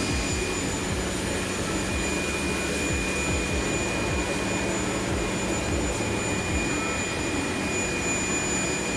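Jet aircraft engine noise running steadily: an even rush with a constant high whine and a low hum underneath.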